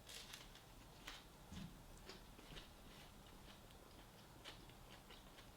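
Near silence: room tone with a few faint, irregular clicks scattered through it.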